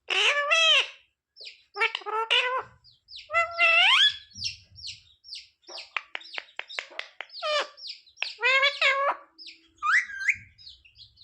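Pet parakeet calling and chattering: a series of squawky, voice-like phrases that bend up and down in pitch, with a quick run of about eight short chirps in the middle.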